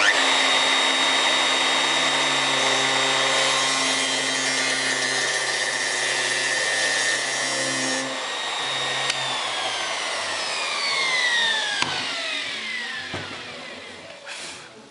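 Router switched on and running at a steady high whine while its bit cuts into the plywood of a formwork panel. The cutting noise stops about eight seconds in as the router is lifted out, and a second later the motor is switched off and its whine falls away over a few seconds as it spins down.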